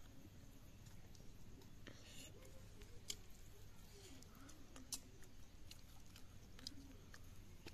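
Faint chewing and lip-smacking of a child eating fried fish by hand, with a handful of small sharp clicks scattered through.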